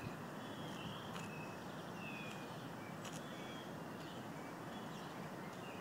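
Birds chirping with short, high calls scattered over a steady outdoor hiss, with a few faint clicks.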